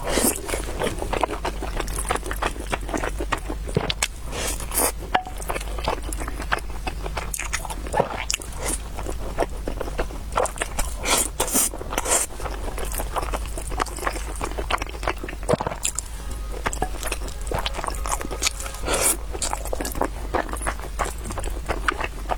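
Close-miked eating: biting and chewing food with a dense, irregular run of short, sharp clicks and smacks, over a steady low hum.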